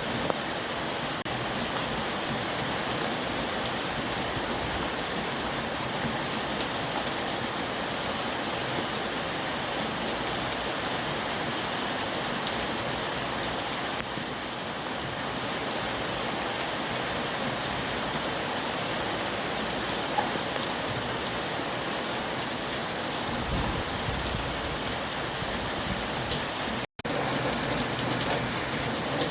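Heavy rain falling steadily, an even hiss of drops hitting surfaces. Near the end the sound cuts out for a split second, then comes back a little louder.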